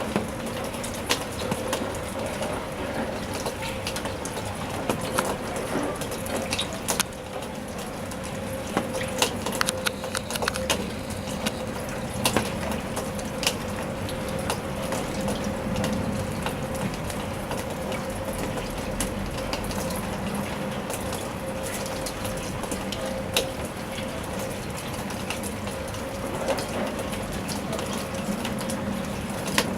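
Steady rain with irregular, louder drops striking close by, and a faint steady hum underneath.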